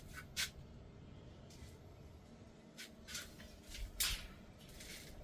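Handwork noises: a handful of short scrapes and rubs, roughly a second apart, as aluminum crab-scoop parts are worked by hand.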